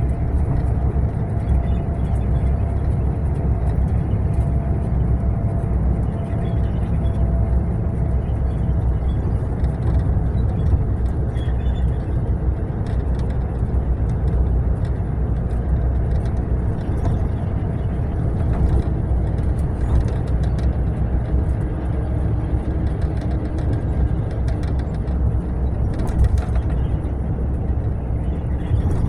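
Mercedes-Benz long-distance coach running at a steady speed: a deep, even engine and road rumble, with a few faint ticks and rattles.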